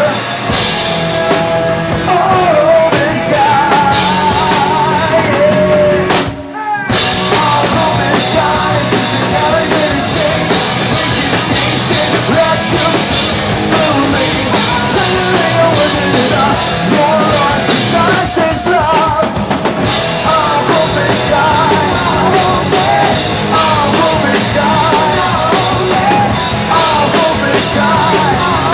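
Live rock band playing loud, with drum kit, guitars and a bending melodic line over them. The band stops dead for a split second about six seconds in, then crashes back in.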